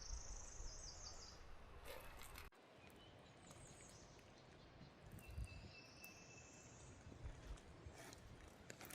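Near silence: faint outdoor ambience with two long, high-pitched calls that rise in pitch, one fading out in the first second or so and another about five seconds in.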